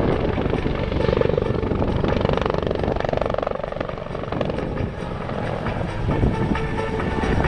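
Bell CH-146 Griffon helicopter flying, its rotor chop and turbine sound dipping about halfway through and growing louder again near the end.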